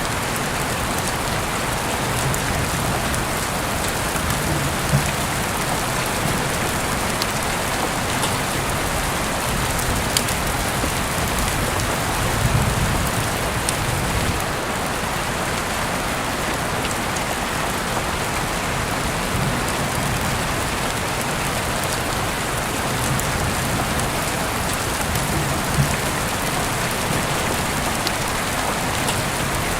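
Heavy rain pouring steadily and hitting surfaces outside an open window, with a dense hiss, scattered sharper drop impacts, and now and then a faint low rumble.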